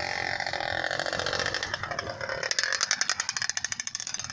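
An engine running, with a rapid even pulsing that swells louder over the second half.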